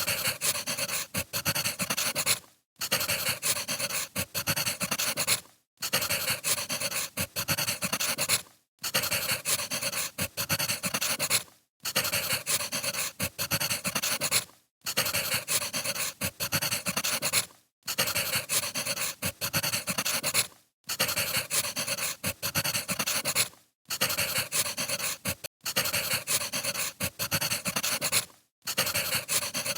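Wood fire crackling and hissing, with frequent small pops, breaking off into brief silences about every three seconds.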